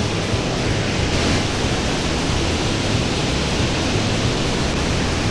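Mountain stream water rushing steadily over rocks, a loud, even roar of flowing water.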